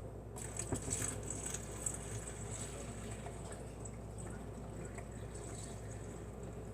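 Water being poured slowly into a portable dishwasher's water tank: a faint trickling and dripping that starts about half a second in.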